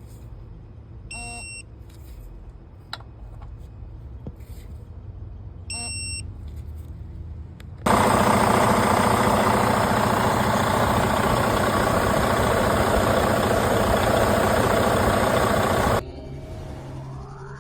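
A low mechanical hum with two short electronic beeps, then a loud, steady mechanical running noise that starts suddenly about eight seconds in and cuts off abruptly about eight seconds later.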